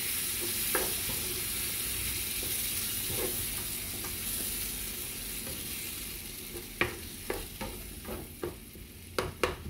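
Ground beef sizzling in a frying pan with freshly added blended tomato sauce while a spoon stirs it; the sizzle slowly fades. In the last few seconds the spoon clicks sharply against the pan several times.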